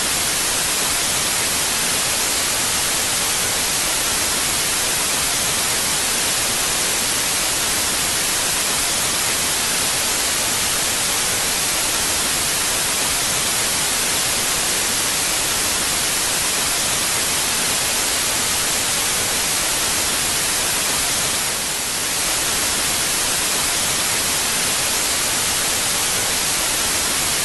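Loud, steady static hiss like white noise, without pitch or rhythm, dipping slightly for a moment about three quarters of the way through.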